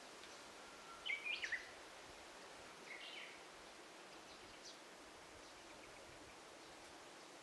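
Forest ambience with a steady faint hiss, and a songbird singing a short phrase of quick stepping notes about a second in, followed by a shorter call about two seconds later and a few faint distant chirps.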